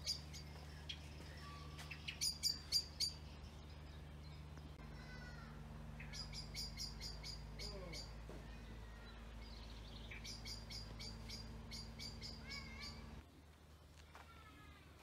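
Songbirds singing outdoors: three bursts of rapid, repeated high chirps spread through the clip, with a few lower sliding calls between them. Underneath is a steady low hum that cuts off abruptly near the end.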